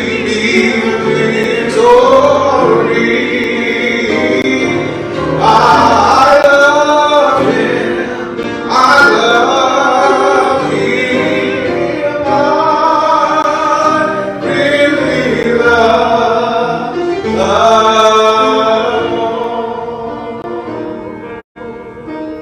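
Gospel choir singing in phrases of held notes. It fades near the end, with a brief dropout.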